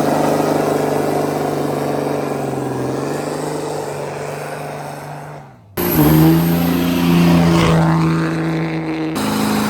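Truck engine held at high revs in a steady drone that slowly fades and cuts out about five and a half seconds in; after a brief gap another engine comes in, held at high revs, and its pitch jumps abruptly near the end.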